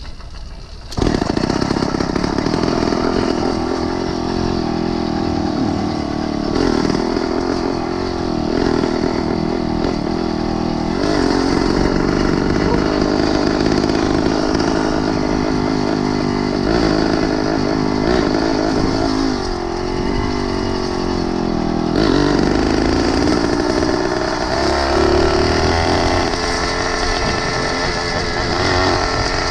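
The small engine of a motorized 20-inch mini bike running while riding, its pitch rising and falling with the throttle. It starts about a second in.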